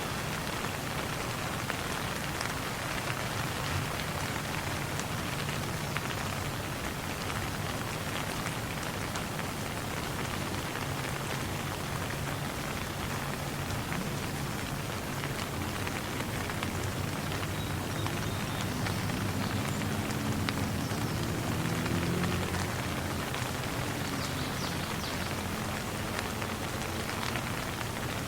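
Steady rain falling on a surface: an even hiss with scattered drop ticks. A low hum lies underneath and swells a little about twenty seconds in.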